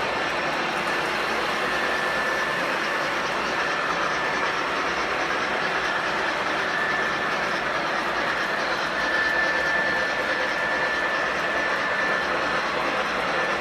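Model trains running on their track layout: a steady whir and rattle of wheels and motors, with a faint high steady whine that comes and goes.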